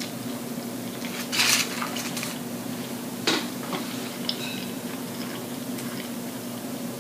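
A woman chewing a bite of chicken shawarma wrap close to the microphone, with a louder mouth noise about a second and a half in and a sharp click a couple of seconds later, over a steady low hum.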